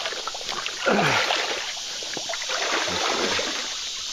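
Water sloshing and splashing as a person wades through a deep swamp creek, with a short falling vocal grunt about a second in.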